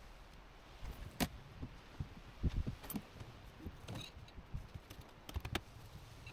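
Irregular light clicks and knocks with some dull low thumps, a dozen or so scattered unevenly, as of things being handled.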